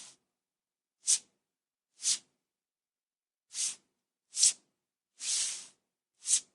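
Sheets of paper being flicked and slid, a series of separate short papery swishes with silence between them: about six quick ones and one longer slide a little past the middle.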